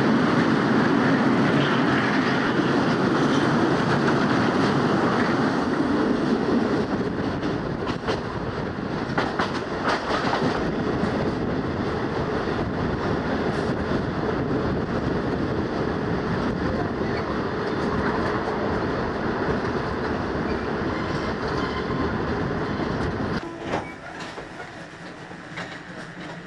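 Running noise of a Malayan Railway local train heard from inside the carriage: a steady rumble of wheels on rail with occasional sharp clicks of rail joints. The noise falls off sharply near the end.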